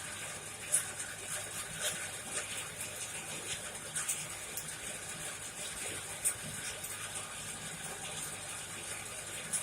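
Coal forge fire burning hot with a steady rush of air and flame, a low hum under it, and scattered sharp crackles and pops from the burning coal.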